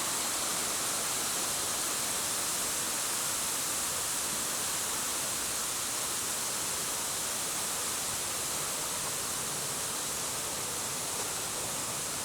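Waterfall's steady rush of falling water, an even, unbroken roar.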